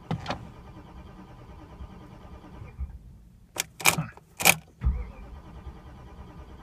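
Ignition key and switch gear of a 1997 BMW 740iL being worked during a failed start attempt on a car that has sat for months: sharp clicks and key jangles, three loud ones followed by a low thump about four seconds in. A steady electrical hum from the car cuts out briefly just before them and then returns.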